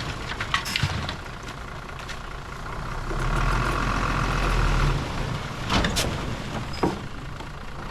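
Diesel engine of heavy earthmoving machinery running steadily, swelling for a couple of seconds in the middle, with a few sharp metallic knocks about half a second in and again near six and seven seconds.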